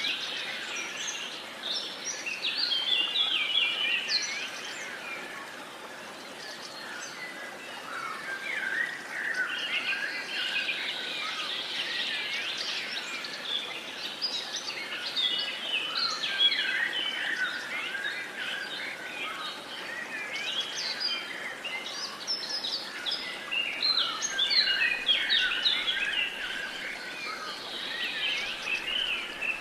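Many songbirds singing and chirping at once, a dense overlapping chorus of short quick notes and rising and falling whistles, over a soft steady background hiss.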